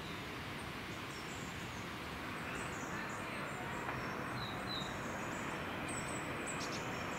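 Low, steady rumble of an approaching Class 450 electric multiple unit, growing slightly louder as it nears, with birds chirping above it.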